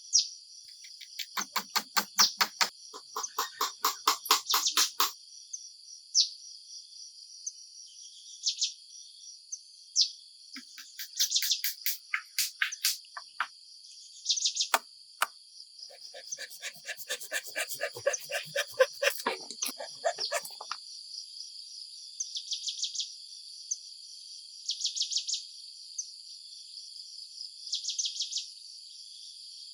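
Insects trilling in a steady high chorus, with pulsed chirps repeating every two or three seconds in the second half. Two bouts of fast, chattering bird calls come over it: one a couple of seconds in and one around the middle.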